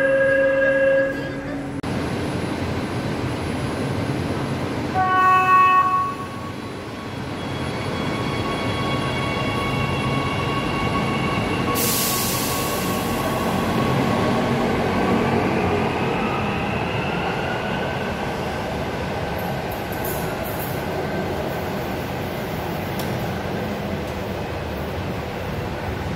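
LRT Jakarta light-rail train (Hyundai Rotem) running, with a steady rumble of wheels on rail and the electric traction motors' whine, which rises in pitch partway through. A short tonal signal sounds about five seconds in, and a brief hiss of air comes around twelve seconds in.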